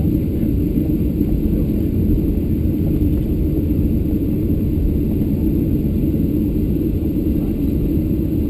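Steady low rumble in the cabin of a Boeing 737-700 taxiing after landing, its CFM56-7 engines at idle thrust.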